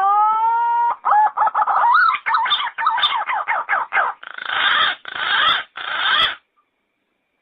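Yellow-footed green pigeon calling: a rising whistle held for about a second, then a quick run of warbling whistled notes, ending in three harsher, noisier notes before it stops.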